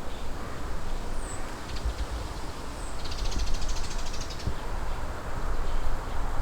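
Eastern crowned warbler singing: a dense, rapidly pulsed buzzy phrase about three seconds in, lasting about a second and a half. Two thin high notes come before it, over a steady low rumble of wind or handling noise.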